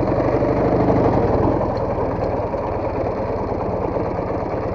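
Motorcycle engine running at low revs with a steady fast pulse, rising a little in the first second or so, then settling.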